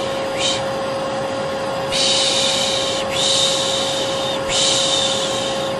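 Vacuum cleaner running with a steady hum, overlaid with a person's 'shh' shushing that lulls a baby to sleep. One short shush comes about half a second in, then three long shushes of about a second each follow one after another.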